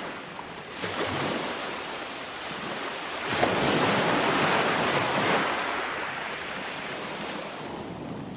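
Ocean waves breaking on the shore: a smaller surge about a second in, then a louder wave crashing about three seconds in and washing out as it fades.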